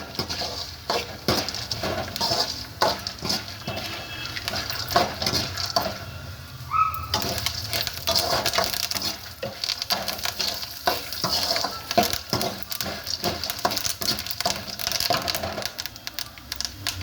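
Peanuts, roasted gram, garlic, cumin and mustard seeds sizzling as they fry in a little oil in a pan, with a spatula scraping and clicking against the pan as they are stirred. The sizzle dips briefly about six seconds in.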